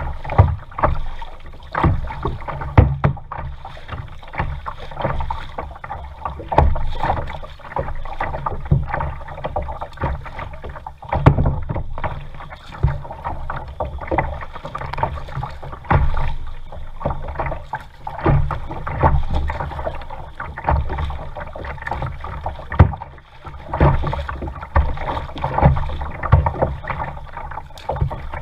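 Kayak being paddled: water splashing and sloshing with each paddle stroke, and the paddle knocking against the hull, about every one to two seconds over a steady low rumble.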